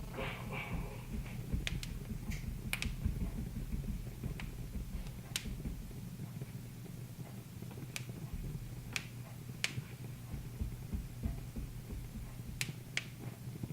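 Wood fire crackling in a fireplace: scattered sharp single pops at irregular intervals over a low steady hum.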